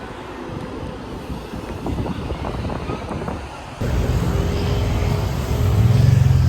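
City street traffic, with vehicles passing and wind on the microphone. About four seconds in the sound jumps louder, and a vehicle's engine drone swells near the end.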